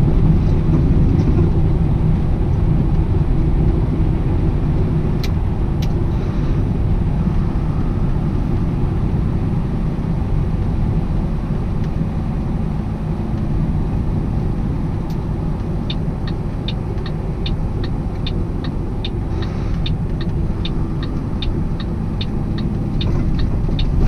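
Steady low engine and road drone inside a loaded semi truck's cab at highway speed. About two-thirds of the way through, a turn signal starts ticking about twice a second, plus a few lone clicks earlier on.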